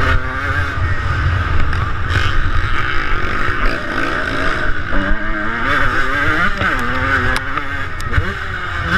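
1998 Suzuki RM125's two-stroke single-cylinder engine revving up and down as it is ridden around a motocross track, its pitch rising and falling with the throttle, over a heavy rumble of wind on the microphone.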